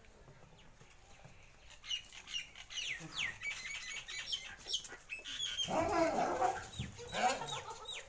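Birds calling: from about two seconds in, a quick run of short chirps that each slide downward in pitch, with a louder, rougher sound in the middle.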